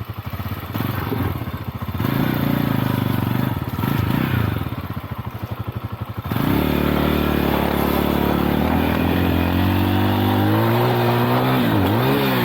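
Small motorcycle engine running. It pulses unevenly for about six seconds, then suddenly becomes louder and steadier, its pitch climbing slowly, with a quick drop and rise near the end.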